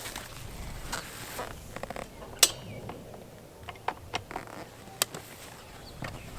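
A few sharp mechanical clicks and light knocks, scattered irregularly, the loudest about two and a half seconds in and another about five seconds in, over a low background hum; no engine running.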